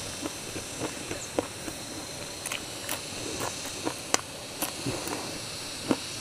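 Close-up chewing of crunchy food: irregular crisp crunches and mouth clicks every half second or so, over a steady faint insect chirring in the background.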